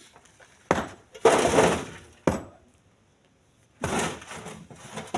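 Split stones being thrown into a truck bed, landing with sharp knocks and clattering rock on rock. A single knock is followed by a clatter lasting about a second, then another knock, then a second clatter.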